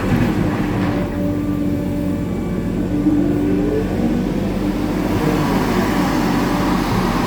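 Hitachi 890 excavator's diesel engine and hydraulics running steadily while working, with a rising whine about three seconds in.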